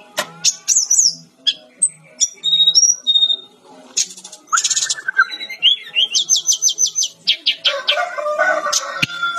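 Fulvous-chested jungle flycatcher (Cyornis olivaceus) singing a fast, varied song of high chirps, whistled slurs and rapid trills, in phrases separated by short pauses.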